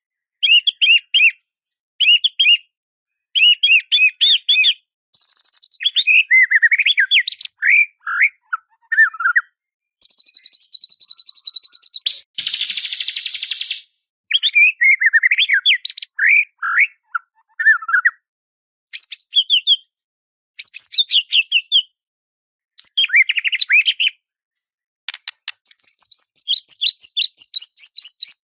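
White-rumped shama (murai batu) singing a varied song of whistled phrases broken by short pauses, including a fast, even, high trill about ten seconds in followed at once by a harsh buzzy note, with rapid phrases picking up again near the end.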